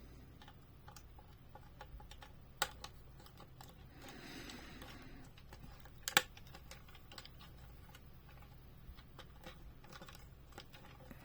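Small screwdriver working at stubborn glued-in screws on a diecast model, with a scatter of light clicks and ticks and two sharper clicks.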